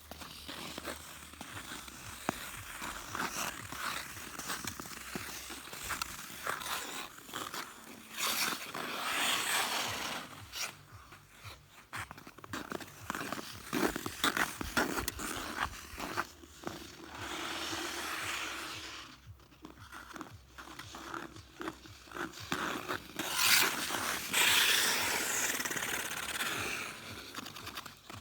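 Ice skate blades scraping and carving across clear pond ice, in uneven rasping strokes with louder surges, among scattered sharp clicks and knocks.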